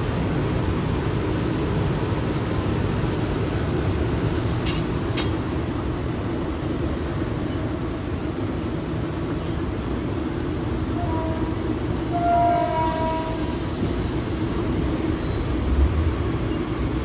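Mumbai suburban electric local train running, heard from inside the carriage: a steady rumble of wheels on rails, with two sharp clicks about five seconds in. A train horn sounds for a couple of seconds about eleven seconds in.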